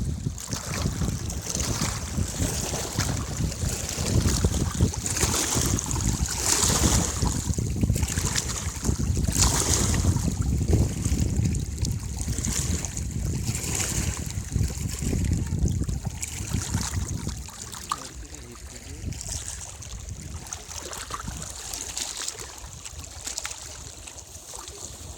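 Wind buffeting the microphone, a gusty low rumble that eases about two-thirds of the way through, over a steady high hiss.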